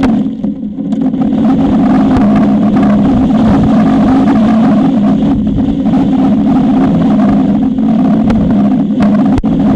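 Strong wind buffeting the nest camera's microphone: loud, continuous wind noise over a steady low hum, easing briefly just under a second in.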